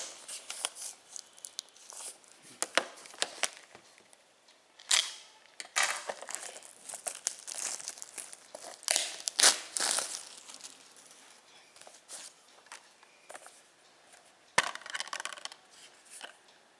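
Plastic shrink-wrap being torn and crinkled off a steelbook disc case, in irregular rustling bursts with a few sharp clicks as the case is handled.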